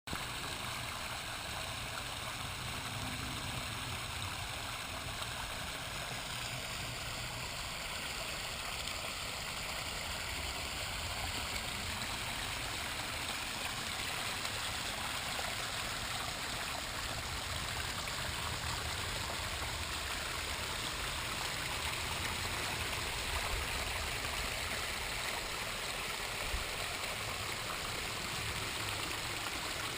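Homemade pondless waterfall: water pouring and splashing steadily over stacked rocks.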